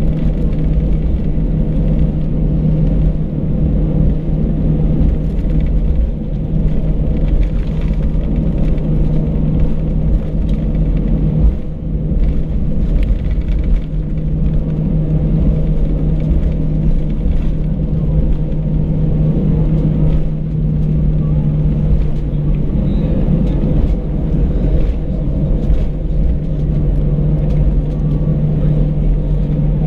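Airbus A319 cabin noise heard from a passenger seat: a loud, steady drone of the engines and airflow with a constant low hum, unchanging in pitch.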